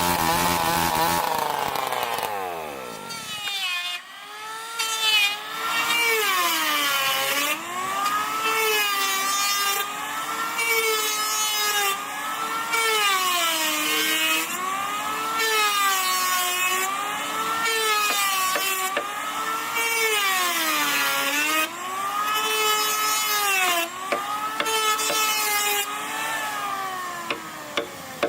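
A power tool's motor winds down in pitch, then a woodworking power tool whines steadily while cutting wood, its pitch dipping and recovering about every two seconds as it takes load.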